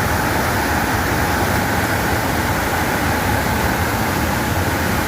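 Waterfall roaring: a steady, unbroken rush of heavy water pouring down the falls.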